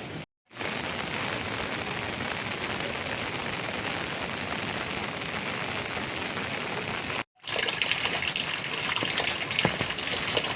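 Heavy rain falling as a steady hiss. It cuts out twice for a moment, and after the second break it comes back louder and brighter, with sharp drops spattering through it.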